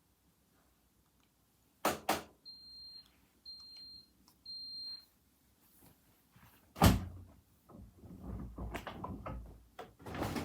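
A front-loading washing machine at the end of its cycle: two quick clicks, then three short high beeps about a second apart, signalling the wash is finished. A loud thunk follows about seven seconds in, then a stretch of rattling and handling noises and another knock near the end.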